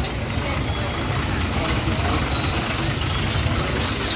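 Truck engine running with a steady low rumble, and a brief high hiss near the end.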